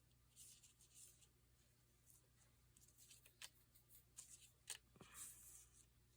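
Faint rustling of paper pieces being handled and shuffled, with a few light clicks or taps, the loudest about three-quarters of the way in.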